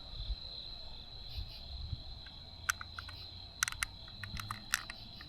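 Crickets trilling, a steady high-pitched insect chirr, with a run of sharp irregular clicks over the second half.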